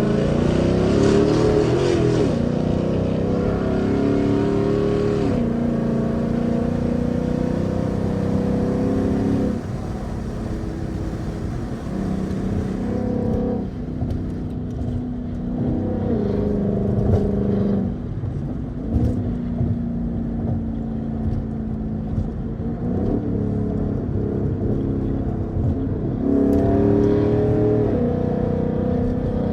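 2015 Mustang GT's 5.0-litre V8 running, its note swooping up and down at first, then holding steady and stepping to new pitches every few seconds.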